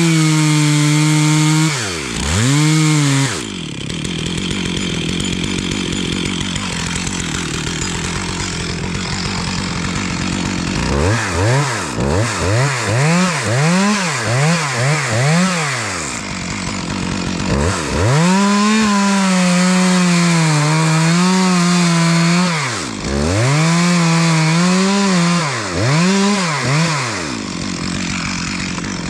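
Stihl two-stroke chainsaw held at full throttle, then dropping to idle. About 11 seconds in it gives a run of quick throttle blips, then runs at full throttle again for several seconds, with more blips before settling back to idle near the end.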